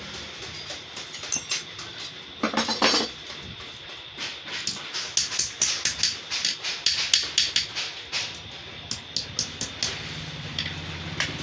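Hammer strikes on sheet metal, a quick irregular run of sharp taps through the middle. A steady low hum comes in near the end.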